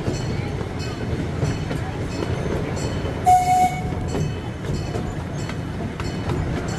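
Small amusement-park train riding along its track: a steady rumble of wheels on rail with occasional clicks, and a short toot of the train's whistle about three seconds in.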